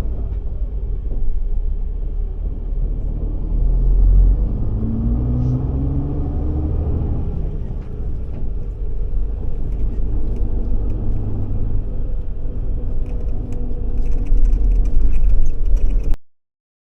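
Bus engine and road rumble heard from inside a moving bus, with the engine note rising for a couple of seconds about five seconds in. The sound cuts off suddenly near the end.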